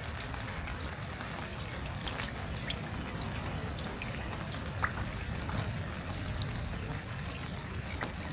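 Rain: scattered drops and drips ticking sharply, one louder drop about five seconds in, over a low steady rumble.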